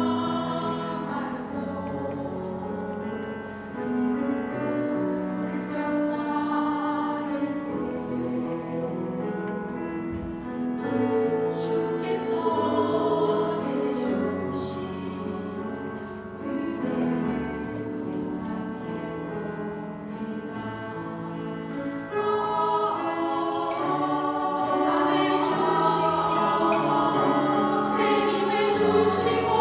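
Small church vocal ensemble singing a gospel song in sustained chords, swelling louder about three-quarters of the way through.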